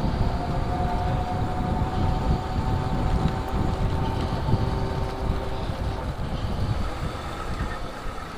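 Wind rumble on the microphone and road noise from a moving e-bike, with a faint steady engine drone from a motorbike approaching in the distance.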